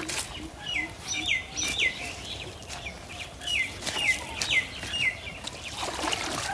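A bird calling: a series of short chirps, each sliding down in pitch, in two runs of several calls with a pause between.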